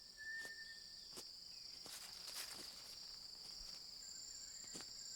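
Tropical rainforest insects, such as cicadas or katydids, droning in a steady high chorus, with a second, higher insect tone joining about four seconds in. A thin steady whistle fades out about a second in, and a few faint clicks sound.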